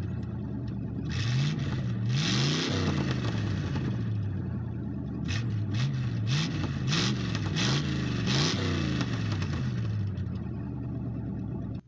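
1970 Chevy Impala's 350 V8 running and being revved again and again, its pitch climbing and dropping back: one longer rev about two seconds in, then a quick run of short blips.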